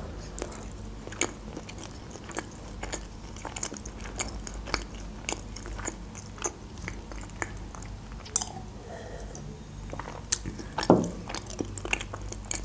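Close-miked chewing of a sushi roll: irregular mouth clicks and smacks, with one louder, deeper sound near the end.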